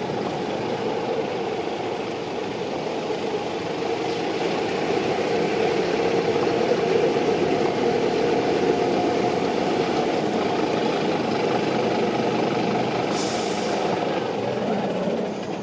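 Heavy diesel engine of a large truck, likely the fire engine, running steadily. It builds over the first few seconds and then holds. About 13 seconds in there is a short hiss of air like an air brake.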